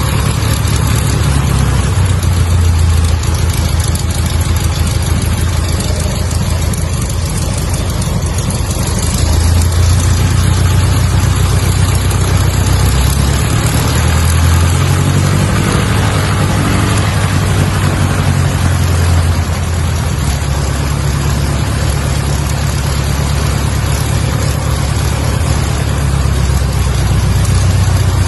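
Cessna 152's four-cylinder Lycoming engine and propeller running with a steady drone, shifting slightly in level now and then.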